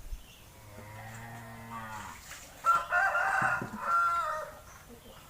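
A cow mooing: a long low call, then a louder, higher-pitched call a moment later.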